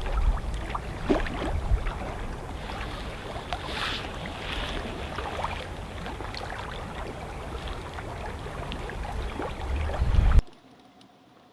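Wind buffeting the microphone over water sounds as a canoe moves on open water, with small splashes and knocks scattered through. It cuts off suddenly near the end.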